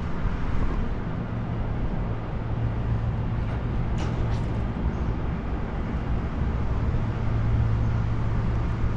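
City street traffic with a steady low engine hum from a nearby motor vehicle.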